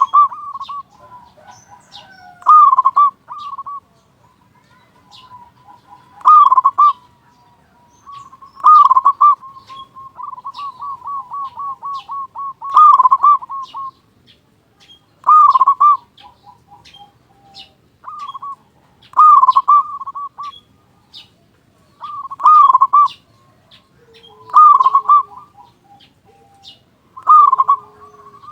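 Zebra dove (local perkutut) singing: loud phrases every few seconds, each a few ringing coos that run into a quick rolling trill. Faint high chirps of small birds sound behind it.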